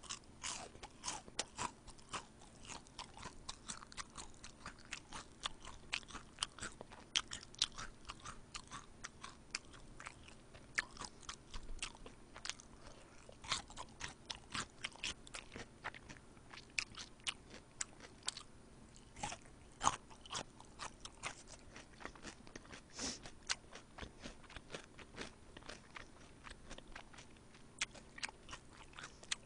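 Close-miked chewing and crunching of crispy soy-sauce fried chicken: irregular wet, crackly bites and chews, several a second.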